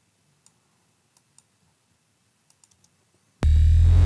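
A few faint mouse and keyboard clicks. About three and a half seconds in, a loud, dense 8-bit synthesizer sound effect starts abruptly, a steady low drone under many sliding tones.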